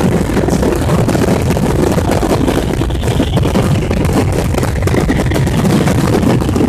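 Fireworks going off in a dense barrage: a continuous low rumble of overlapping bangs with rapid crackling pops throughout.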